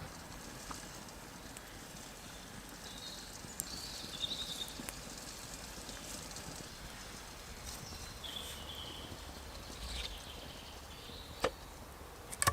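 Faint steady woodland background with a few scattered sharp clicks, the loudest near the end, and two short warbling bird calls.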